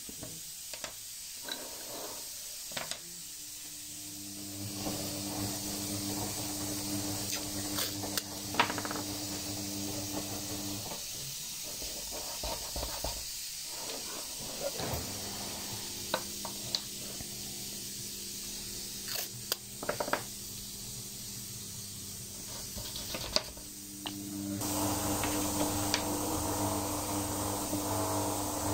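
A small electric motor hums steadily, stopping for a few seconds midway and starting again, louder, near the end, with scattered sharp wooden knocks and clicks.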